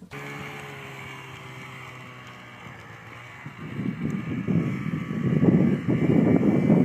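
A motor running with a steady hum, joined about three and a half seconds in by a loud, gusting rushing noise that grows louder.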